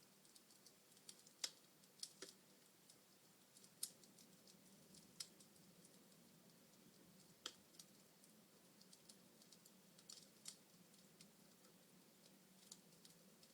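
Wood fire in a fireplace crackling: sharp snaps and pops at irregular intervals, a few of them much louder, over a faint steady background.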